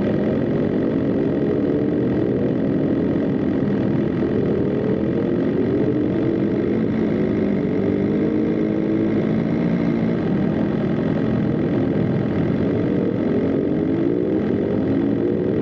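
BMW M 1000 RR's inline-four engine running hard at speed on track, its pitch climbing and dropping back several times as it revs out and shifts.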